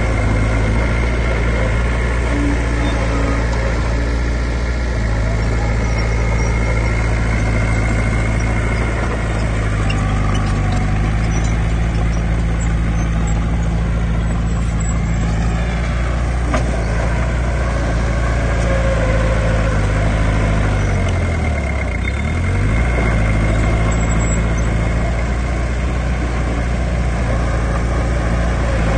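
Heavy diesel engine of earthmoving machinery running steadily, its pitch dipping and coming back up about three-quarters of the way through.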